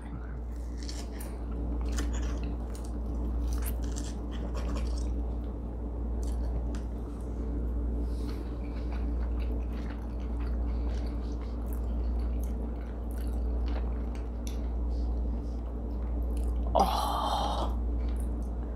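People chewing and biting into crisp deep-fried chicken croquettes, with scattered small crunches and clicks of forks on plates over a steady low hum. A short voiced sound comes near the end.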